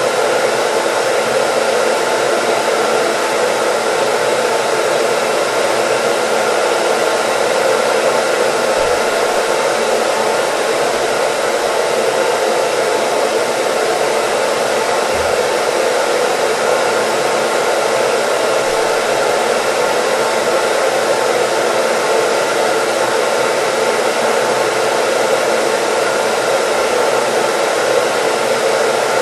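Hair dryer running continuously: a steady, even rushing noise with a faint constant hum in it, played as white noise.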